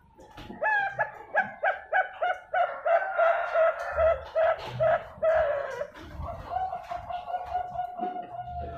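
Zebra dove (Thai-bred perkutut bangkok) singing: a quick run of short cooing notes, then one long drawn-out note at the same pitch.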